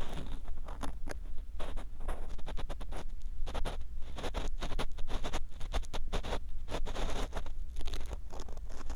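Ear pick scratching and scraping inside the ear of a 3Dio binaural dummy-head microphone: a dense, irregular run of short scratchy strokes.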